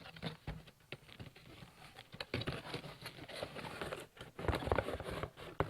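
Hands rummaging in a cardboard box and its packaging: rustling and scattered light clicks and knocks, busier in the second half, with a sharp click near the end.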